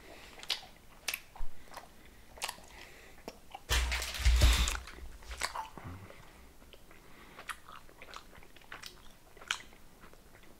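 Close-up chewing of bubble-gum candy fries: scattered wet mouth clicks and smacks, with a louder rush of noise lasting about a second, about four seconds in.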